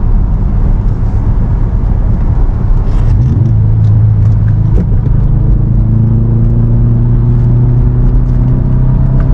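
2018 Subaru WRX STI's turbocharged flat-four, fitted with axle-back exhausts, pulling the car along over steady road noise. About three seconds in the engine note comes up and holds, then climbs slowly in pitch as the car accelerates.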